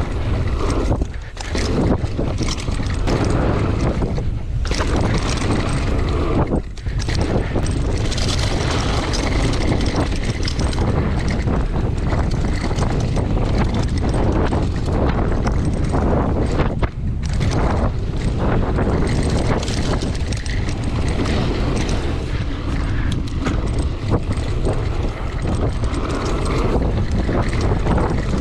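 Wind buffeting the microphone of a mountain bike moving fast down a dirt trail, a continuous rushing noise with many small knocks and rattles from the bike over rough ground.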